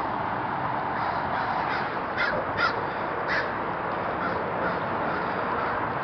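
A bird giving a few short, harsh calls, the clearest three about two to three and a half seconds in, over a steady background hiss.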